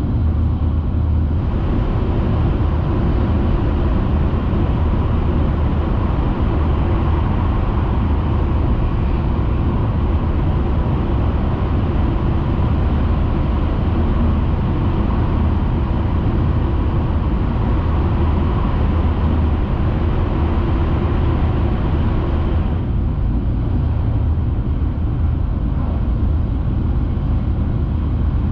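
Steady rumble and rush of a Tohoku Shinkansen Hayabusa train running at speed, heard from inside the passenger car. A harsher, hissier layer of noise comes in about a second and a half in and drops away about six seconds before the end.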